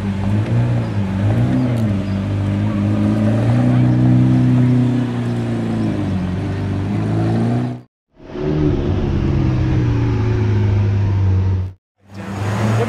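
Lamborghini Aventador SV's V12 engine running at low revs as the car pulls away, its pitch rising and falling gently with light throttle. The sound cuts off suddenly twice for a moment, about two-thirds of the way in and again near the end.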